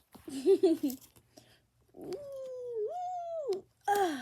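A small cat meowing: one long drawn-out meow that dips and rises in pitch about two seconds in, then a shorter falling meow near the end.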